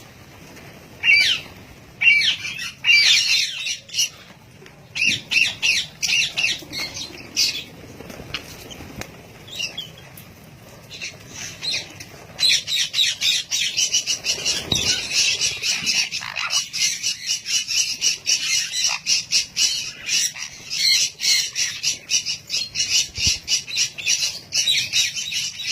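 Parrots squawking, with separate short calls at first, then about halfway through a fast, unbroken chatter of rapidly repeated calls.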